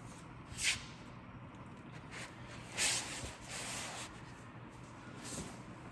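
A few short rustling and scraping noises of hands and tools at work, the loudest about three seconds in.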